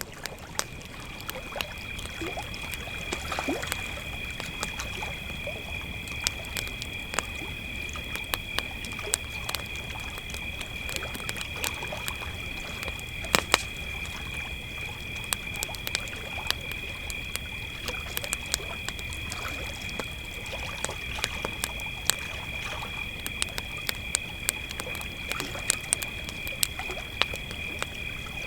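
Crickets chirping in a steady, unbroken high trill at two pitches, over a campfire crackling with frequent sharp pops, one louder pop about halfway through.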